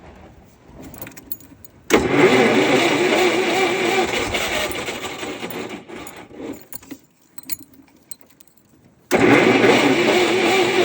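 Electric starter cranking the cold air-cooled Wisconsin four-cylinder engine of a Vermeer M437 trencher: a warbling crank of about four seconds that stops without the engine catching, then a second crank starting about two seconds from the end.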